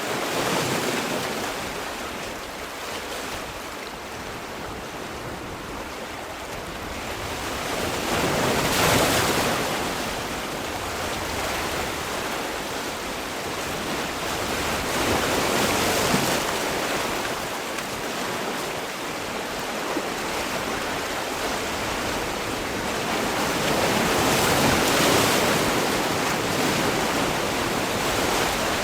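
Sea waves breaking on the shore, a steady wash of surf that swells with a new wave about every seven to eight seconds.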